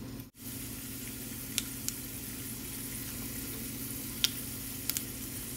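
Chana dal, cumin and mustard seeds sizzling steadily in hot oil in a frying pan, with a few sharp ticks scattered through.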